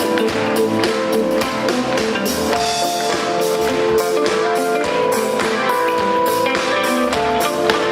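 A live rock band playing an instrumental passage: guitars holding sustained notes over a steady drum-kit beat, with no vocals.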